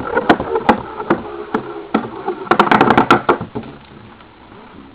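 Galaxy Pegasus Beyblade spinning top clattering and knocking against the sides of the container it was launched into, with a rapid flurry of hits about two and a half seconds in. It then dies away to a few faint clicks as the top slows.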